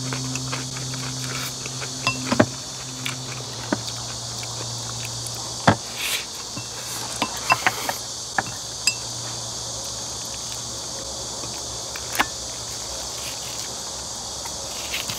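Chopsticks and spoons clicking and clinking now and then against glass rice bowls and a metal pan, over a steady high chorus of insects.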